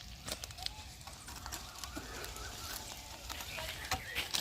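A few light, scattered knocks and clicks, the strongest near the end, with faint bird chirps.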